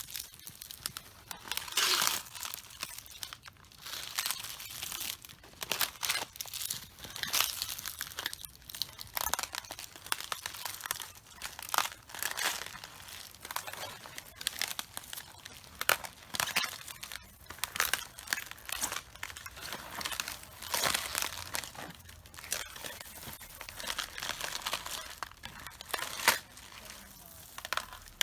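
Footsteps crushing cabbages: crisp crunching, leaves cracking and tearing underfoot, one step about every one to two seconds.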